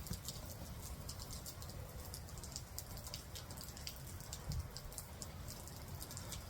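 Rain falling, with many small, sharp drop ticks scattered through it.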